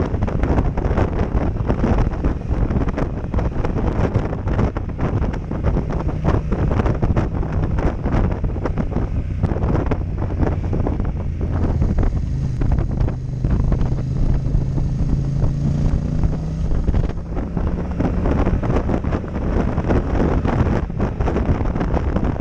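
Heavy wind buffeting on a helmet-mounted action camera's microphone at riding speed, covering a Yamaha MT-07 Tracer's parallel-twin engine. The engine's note comes through steadily for a few seconds past the middle.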